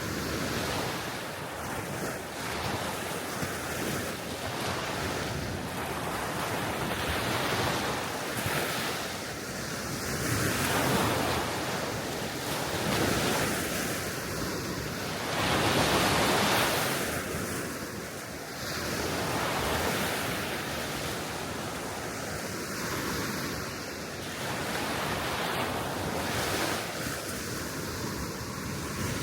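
Small waves washing onto a sea shore, rising and falling every few seconds as each breaks, with wind on the microphone.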